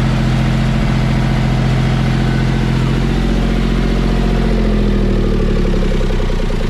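Diesel tractor engine running steadily at close range; its speed drops over the last couple of seconds.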